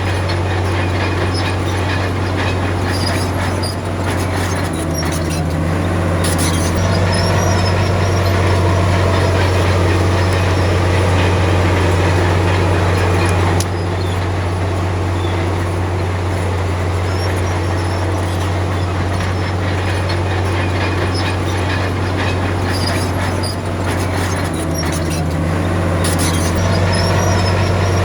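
Komatsu D53P crawler bulldozer's diesel engine running under load with a steady low drone. The engine note shifts twice, about five seconds in and again near the end, while the steel tracks squeal and clank.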